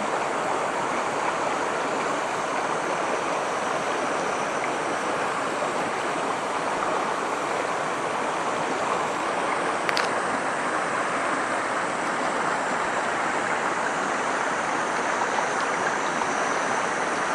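Steady rushing of flowing water, as of a stream, even and unbroken, with a single brief click about ten seconds in.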